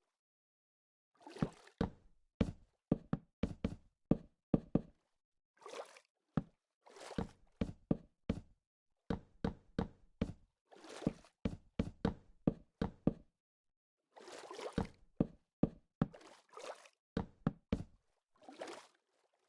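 Irregular knocks and thumps, some single and sharp, some in quick clusters or brief scraping bursts, with dead silence between them.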